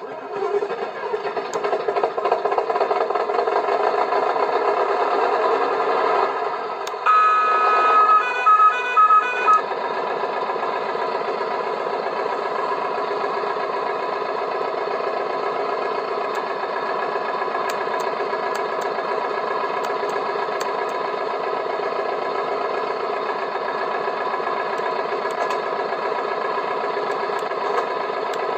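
Converted Bruder Scania Liebherr toy crane truck running during a crane lifting test: a steady motorised hum with several held tones. About seven seconds in there are a few short beeps.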